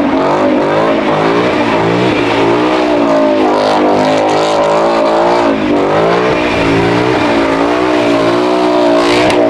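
Car engine revving hard and held at high revs, its pitch rising and falling every half second or so without letting up.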